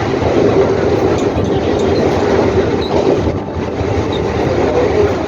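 Mumbai suburban local train, an electric multiple unit, running along the track: a steady, loud rumble of wheels and rails with a steady hum through it.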